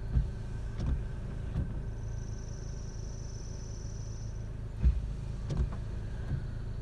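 Car engine idling, heard from inside the car, with a few dull low thumps scattered through and a thin, high whine lasting about two seconds in the middle.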